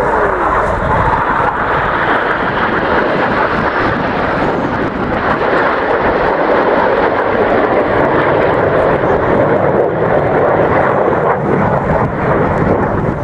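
Fixed-wing aircraft flying past with a loud, steady engine roar.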